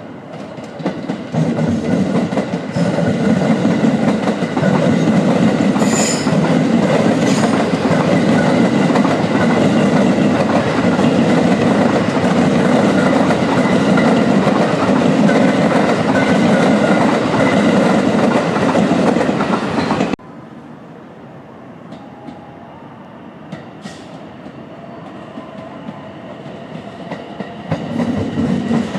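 A train running past on the station tracks, loud and steady with wheel clatter for about twenty seconds. It cuts off suddenly to a quieter rumble with a few clicks, and the sound swells again near the end.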